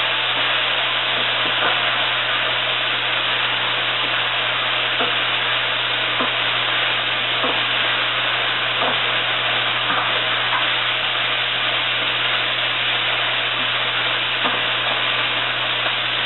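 Sausage, chicken, bell peppers, onions and mushrooms sizzle steadily in a hot pot as the peppers and onions caramelize. A spoon stirring the pan gives light knocks and scrapes against it now and then.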